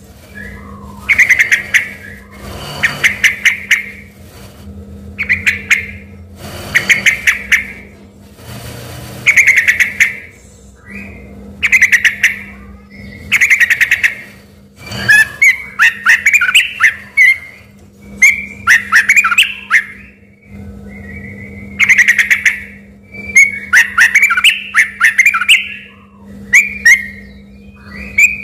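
Yellow-vented bulbul (trucukan) singing in loud, rapid phrases about a second long, repeated every second and a half or so, turning into more varied warbled phrases from about halfway. Its song is taken for a white-rumped shama's (murai batu).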